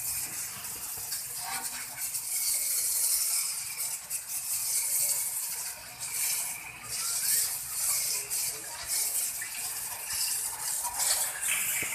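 A farm tractor being washed: an uneven hiss that rises and falls, with small clinks and scrapes.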